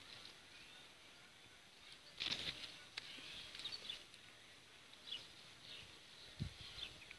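Quiet outdoor ambience with faint, scattered short bird chirps. A brief rustling burst comes about two seconds in, and a soft low bump comes near the end.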